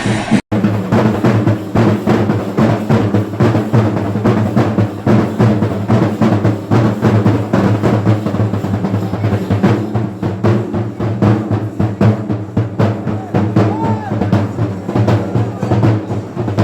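Kerala temple drum ensemble, chenda drums, beaten in a fast, dense rhythm over a sustained low ringing. The sound cuts out for an instant about half a second in.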